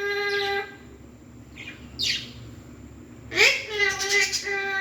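Pet Alexandrine parakeet calling: a drawn-out note that stops about half a second in, a short falling squawk around two seconds, then a call that rises and levels off into a long held note near the end.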